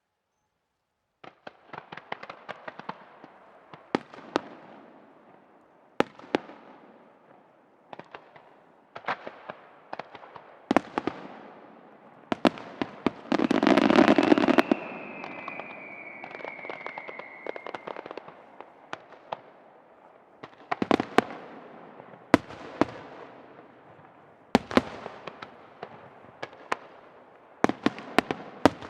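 Aerial firework shells bursting in a long series of sharp bangs, with crackling between them. About fourteen seconds in comes a dense, loud barrage, followed by a whistle that falls slowly in pitch for a few seconds.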